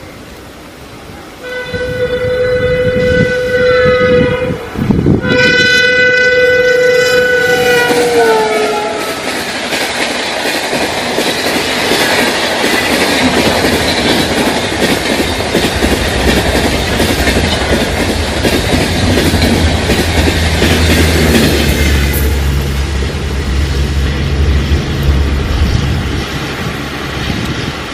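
Indian Railways WAP-7 electric locomotive sounding its horn in two long blasts, the second dropping in pitch as it passes. Then the long train of coaches rushing by with rail clatter. About three-quarters of the way through, this gives way to a lower steady rumble and hum of another train approaching.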